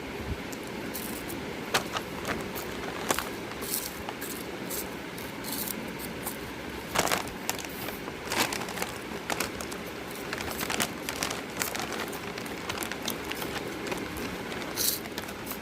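Snack packets crinkling and crisps being crunched: a scatter of irregular crackles and sharp clicks.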